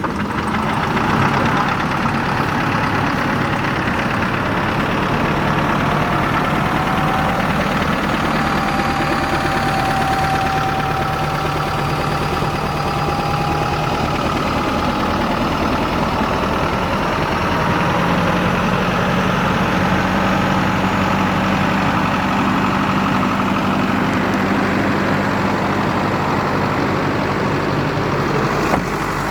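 2009 Isuzu NPR-HD box truck engine idling steadily; the idle pitch steps up slightly about two-thirds of the way through.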